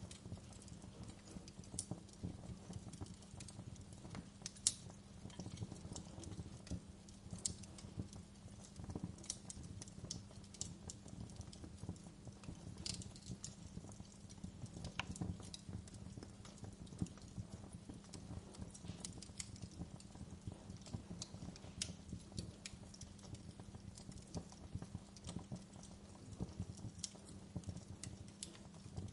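Wood fire crackling in a fireplace: irregular sharp pops and crackles, one louder than the rest about five seconds in, over a low steady rumble of the flames.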